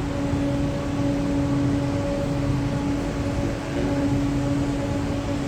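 Steady drone of coal-fired power plant machinery: a constant rushing noise with a few steady humming tones held throughout.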